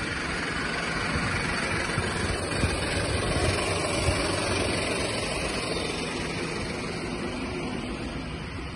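Mini Cooper engine idling steadily during an engine carbon-cleaning treatment.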